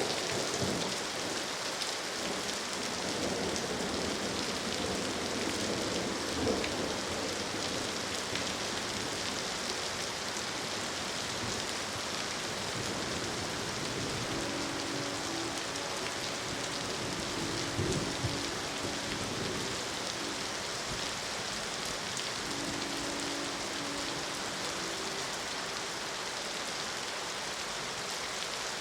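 Steady rain falling, with a thunder rumble dying away at the start. About halfway through, a distant train horn sounds its chord in several blasts.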